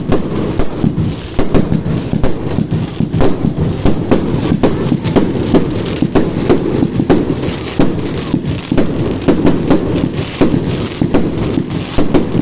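Fireworks going off: a dense, continuous run of many overlapping bangs and crackles.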